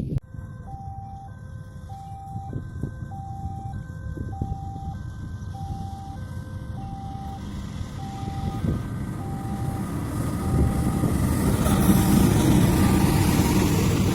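Railway level-crossing alarm sounding a repeating electronic tone a little under once a second, while the rumble of an approaching train, likely a KAI CC206 diesel locomotive, grows steadily louder through the second half.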